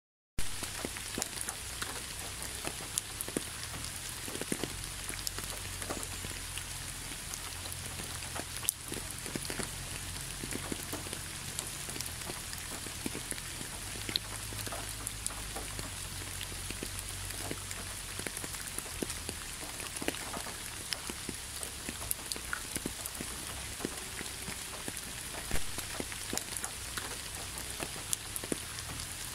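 Steady rain: a constant hiss sprinkled with many separate sharp drop ticks, with a faint low rumble underneath.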